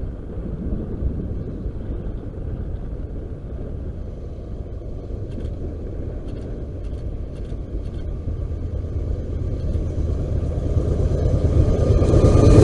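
Approaching BNSF freight train's diesel locomotives: a low rumble of engines and rolling wheels that grows steadily louder over the last few seconds.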